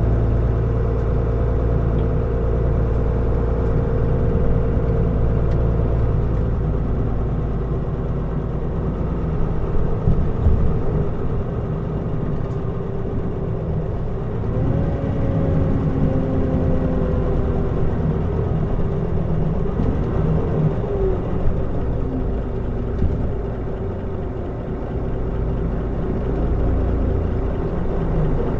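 Mitsubishi Fuso Aerostar city bus (2012, QKG-MP35FP) under way: a steady diesel engine drone over road rumble, the engine note rising and then falling about halfway through as the bus changes speed. There are a few short knocks about ten seconds in.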